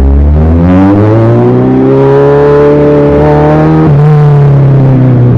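Kawasaki Z1000 inline-four through an Austin Racing aftermarket exhaust, loud under acceleration. The engine note climbs for the first couple of seconds, holds, then shifts abruptly about four seconds in.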